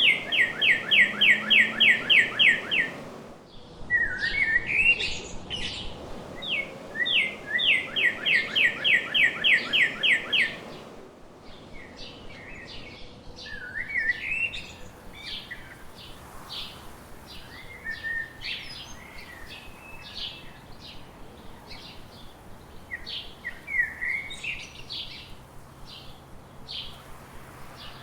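Songbirds singing. In the first eleven seconds one bird gives a loud song twice, each a few slurred notes and then a fast, even trill of about a dozen notes. Softer chirps from other birds carry on through the rest.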